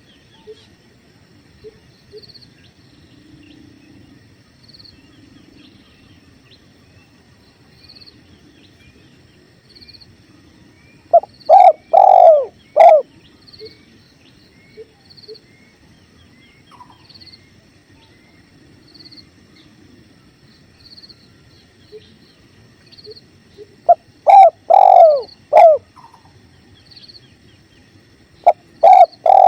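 Spotted dove (tekukur) cooing: three phrases of about four low, falling notes, roughly a dozen seconds apart and then a few seconds apart near the end. Underneath is a steady low rush of river water and faint, regular high chirps.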